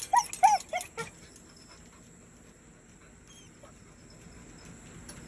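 A dog giving a quick run of short, high yelps, about four in the first second, then falling quiet.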